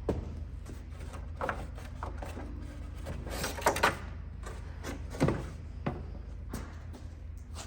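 A series of sharp clunks and knocks, the loudest a close pair about halfway through, over a low steady hum.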